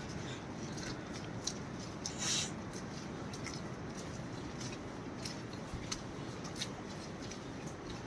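Light rustling with scattered crackles and clicks, like footsteps on dry leaf litter and twigs, over a steady background hiss. A louder, brief rustle comes about two seconds in.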